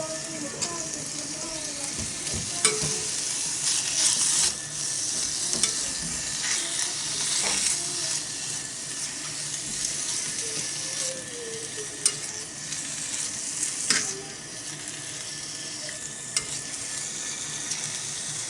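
Pork and kimchi sizzling in sesame oil in a small iron pot, a steady hiss with sharp clicks now and then as the food is stirred.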